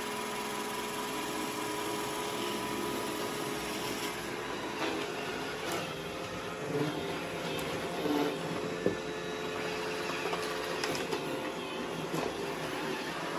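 Robot vacuum cleaner running steadily as it drives over extension cords, with a sharp knock about two-thirds of the way through.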